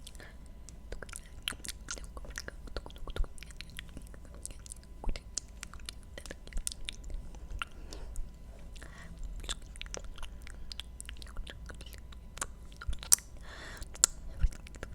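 Close-miked ASMR mouth sounds: an irregular run of many wet clicks and smacks, with a few soft breathy passages.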